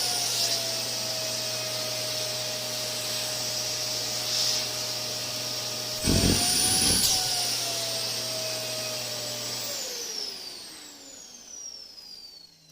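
Canister vacuum cleaner running with a steady motor whine and rush of air; about six seconds in its pitch briefly rises and falls back with a louder rush of air, and about ten seconds in it is switched off, the whine falling in pitch and fading as the motor spins down.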